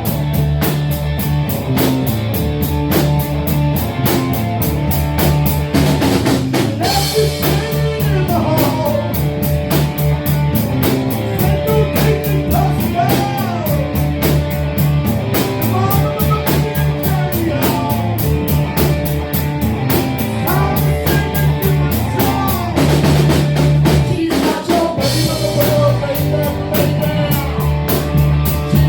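Live rock band playing: a drum kit keeps a steady beat under electric guitar and a bass line, and a singer comes in about seven seconds in.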